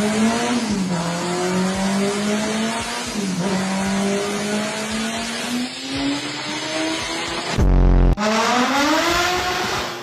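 Car engine at high revs during a dynamometer pull, its pitch climbing slowly and dipping briefly twice. A loud, short low boom comes about eight seconds in, followed by an engine revving up quickly.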